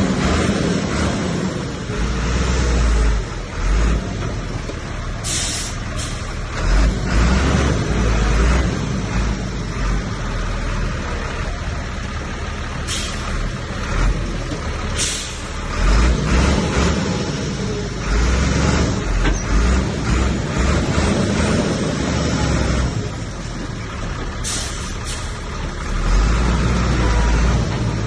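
Heavy diesel earthmoving machinery working, most likely a Komatsu bulldozer: a loud engine rumble that swells and eases under load, broken several times by short, sharp high-pitched bursts.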